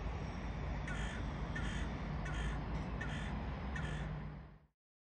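A bird calls five times at an even pace, about one call every three-quarters of a second, over a steady low rumble. All sound cuts off shortly before the end.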